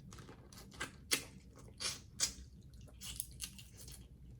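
Close-miked chewing: wet, smacking mouth sounds of someone eating, with a handful of sharp clicks at uneven intervals.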